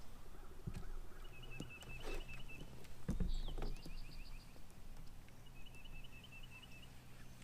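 A small bird sings twice, each time a quick run of short chirped notes. Two low knocks sound under it, one early and one about three seconds in.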